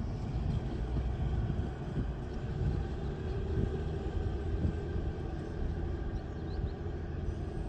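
Kalka–Shimla narrow-gauge toy train running along the track, a steady low rumble.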